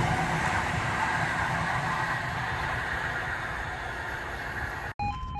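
East Midlands Railway regional train running away down the line, its rumble slowly fading. Near the end, after a brief dropout, a level crossing warning alarm starts, sounding two alternating tones.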